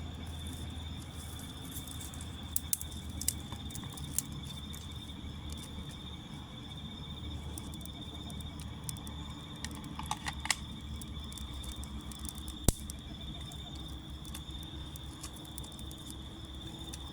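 Crickets chirping steadily in a continuous high-pitched chorus, with scattered sharp clicks and crackles, the loudest a single sharp click about two-thirds of the way through.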